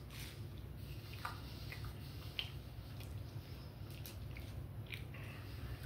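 Quiet chewing, with small wet mouth clicks scattered through it, over a low steady hum.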